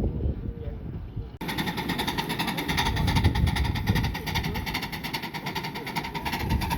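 Buffaud-Robatel 031T steam locomotive No. 3714 working, a rapid even pulsing over steady hiss that starts abruptly about a second in after a quieter stretch.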